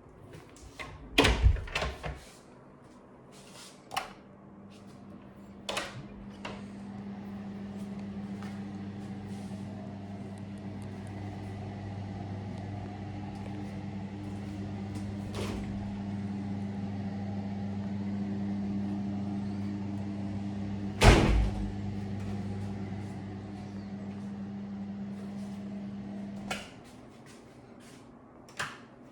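A steady electric hum runs for about twenty-four seconds, then cuts off abruptly, like an appliance motor switching off. Several sharp knocks fall across it, the loudest about twenty-one seconds in.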